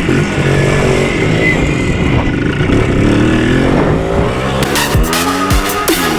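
Minsk motorcycle's single-cylinder two-stroke engine running, its pitch rising and falling as it is revved. Electronic dance music with a heavy beat comes in over it about four and a half seconds in.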